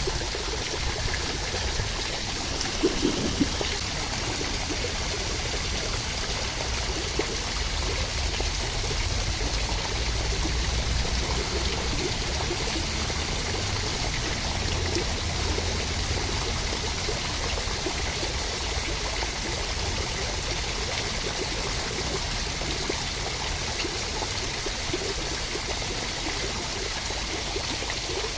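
Steady rain with running, trickling water, an even rushing noise that does not change.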